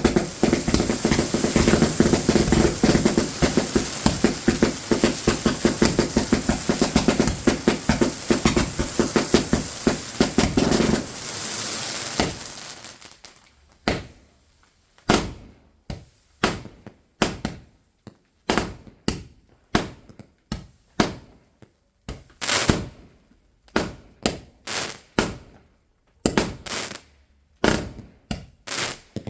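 Fireworks going off: a dense, rapid crackle of shots for about the first eleven seconds, then single sharp bangs about one to two a second.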